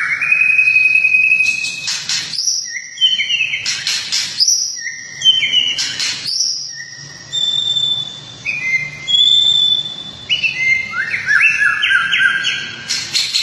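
Recorded songbird song used as masteran (training song for caged birds). Clear whistled notes and rising sweeps are broken by three harsh rasping bursts about two seconds apart, and near the end come runs of quick repeated rising notes.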